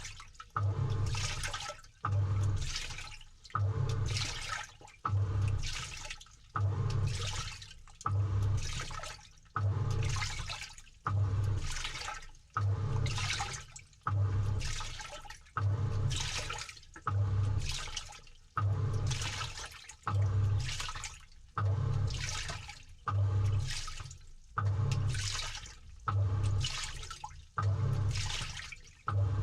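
Samsung 6.5 kg top-load washing machine agitating a load, heard from inside the tub. Water sloshes in a surge about once a second with a low motor hum as the pulsator turns back and forth.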